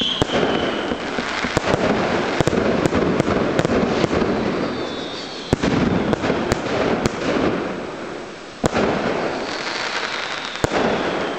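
Fireworks display: a rapid series of sharp bangs from bursting rockets and shells, with dense crackling between them and high whistles falling in pitch near the start, midway and near the end. The bangs echo off the surrounding hillsides.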